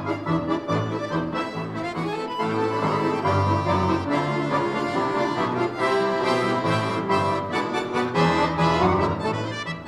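An orchestra of bayans (Russian button accordions) playing a piece live, with sustained chords over a regularly pulsing bass line.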